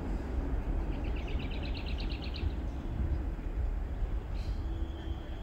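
A songbird sings one fast trill of evenly repeated high notes about a second in, over a low steady rumble.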